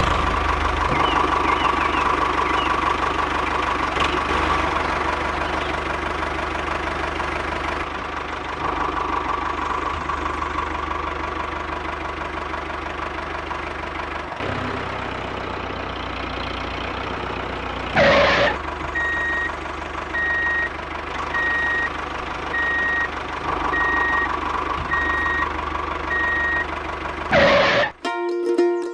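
A DIY mini tractor's small motor running steadily with a rapid pulsing. About two-thirds of the way in, a high beep starts repeating roughly once a second, like a reversing beeper, with two brief louder bursts around it.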